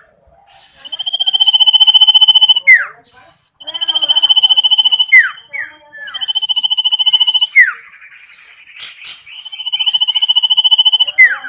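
Common iora (sirtu or cipow) singing: four long, rapidly pulsing whistled notes of about two seconds each, each ending in a quick downslurred note.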